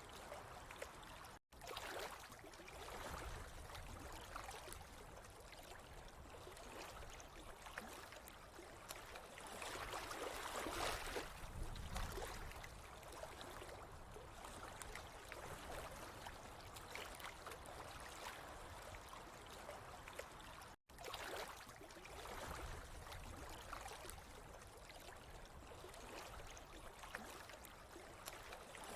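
Running water trickling and gurgling steadily, swelling and easing a little, with two very brief cut-outs.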